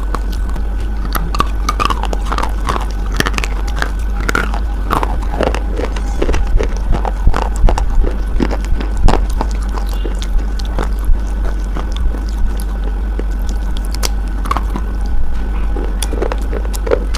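Close-up biting and chewing of a hard, brittle white bar: many short, sharp crunches at an irregular pace, with background music.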